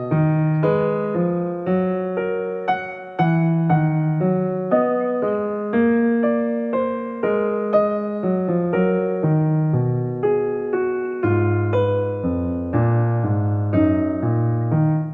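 Soft background music on a piano-like keyboard: a steady, unbroken stream of struck notes.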